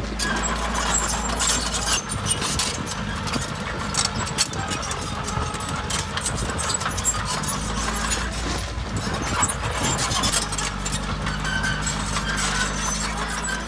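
Heavy earthmoving machine's diesel engine running steadily, with many small clanks and knocks on top.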